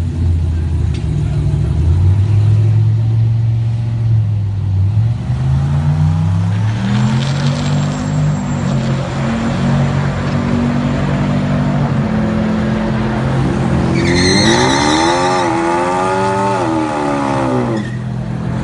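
Drag cars revving at the burnout box: the low, steady note of a Dodge Charger R/T's V8 on long-tube headers climbs in pitch as it is revved, then about 14 seconds in a much higher engine note sweeps up and down for about four seconds as a car spins its tyres in a burnout.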